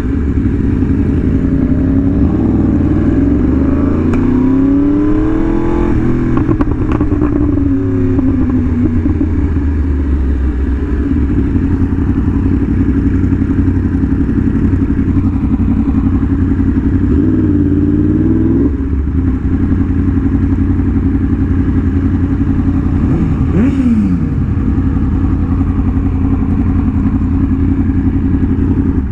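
Yamaha R1M's crossplane inline-four running through an SC Project exhaust at riding speed. The note climbs as it revs up a few seconds in and again past the middle, with a short falling sweep later on.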